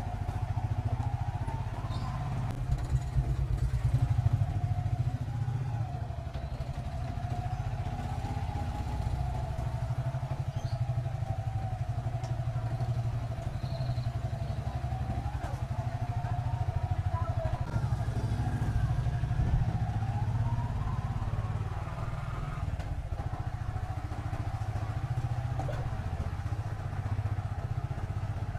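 Motorcycle engine running steadily at low alley speed, its note wavering up and down with the throttle and rising a little about three quarters of the way through.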